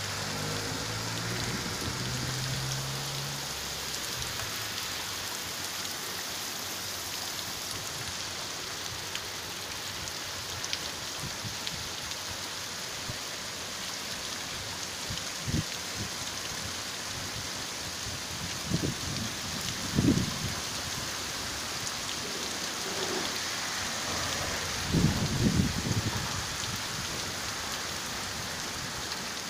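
Heavy rain pouring steadily and splashing on wet pavement. A vehicle engine hums low in the first few seconds, and several short, dull low thumps come in the second half.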